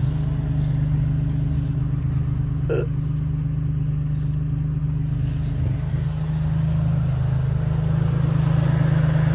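Chrysler Hemi 265 straight-six of a Valiant CL Charger idling steadily and evenly, running well now that a fuel blockage has been cleared.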